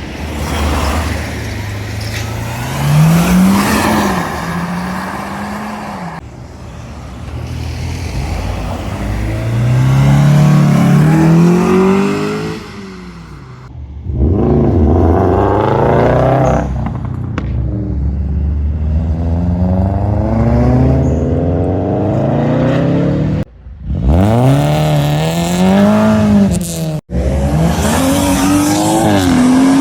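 Modified cars' engines revving hard as they accelerate away one after another, the pitch climbing and dropping back between gear changes. The sound breaks off abruptly several times.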